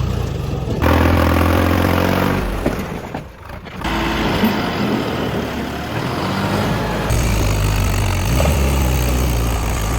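Tractor diesel engines running steadily, with abrupt changes in pitch and level about a second in and about seven seconds in, and a brief dip around three and a half seconds.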